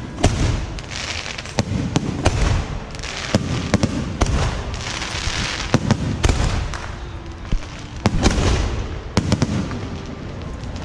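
Fireworks from a beehive rocket barrage going off without pause: many sharp, irregular bangs over hissing whooshes of rockets, with a low rumble underneath.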